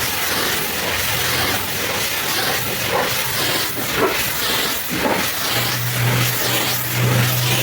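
High-pressure washer spraying water onto a truck, a steady hiss of the jet. A low hum underneath gets louder about two-thirds of the way through.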